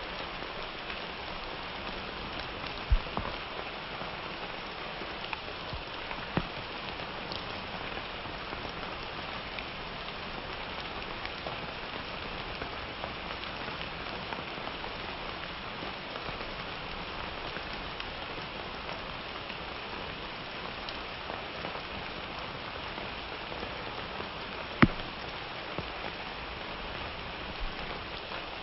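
Steady summer rain falling, an even hiss of drops with now and then a single louder drip or tap, the loudest about three seconds before the end.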